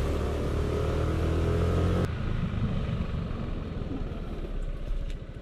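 A steady machine hum with a strong low drone that cuts off abruptly about two seconds in. After that a motorcycle engine idles with a fast, even low pulse.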